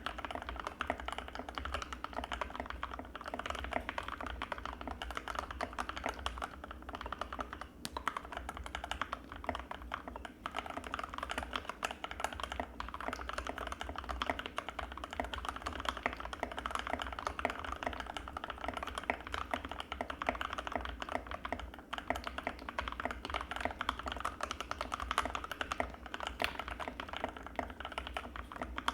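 Fast, continuous typing on an Anne Pro 2 mechanical keyboard with Gateron Red linear switches: a dense stream of creamy key clacks with only the odd brief pause.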